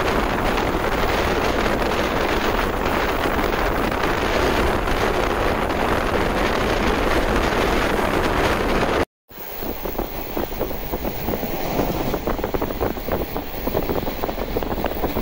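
Running noise of a 185-series electric train at speed, heard on board: a steady rush of wheel, track and wind noise. About nine seconds in it cuts out for a moment and comes back quieter and more clattery.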